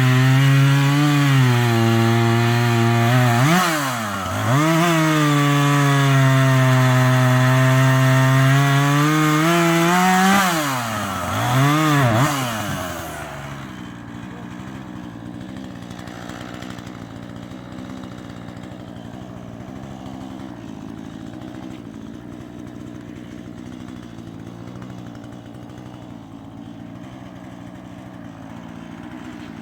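Husqvarna 440e two-stroke chainsaw running at high revs, its pitch sagging and recovering twice, then dropping to idle about 13 seconds in and idling steadily.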